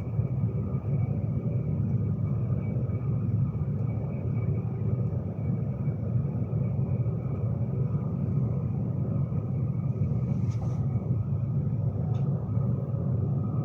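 Steady running rumble heard inside the carriage of a Class 390 Pendolino electric train travelling at speed, with two faint clicks near the end.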